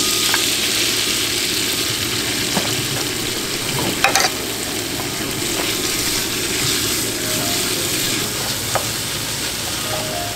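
Crumbled tofu sizzling steadily in hot oil in a frying pan as it is stirred with a wooden spatula, with one brief knock about four seconds in.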